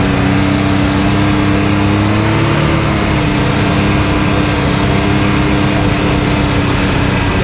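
Can-Am Maverick X3 side-by-side's three-cylinder engine running steadily on the trail, amid a dense rumble. Its pitch rises a little about two and a half seconds in and then eases back.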